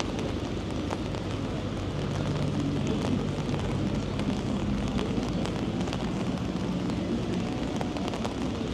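Street ambience in steady rain, with scattered drops ticking over a constant wash of city noise. A low engine hum comes in about two seconds in and fades out around seven seconds.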